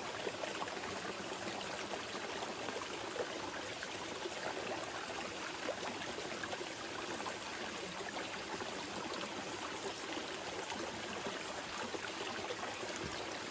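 Small mountain river flowing steadily over stones, an even rush of water with many small splashes and trickles.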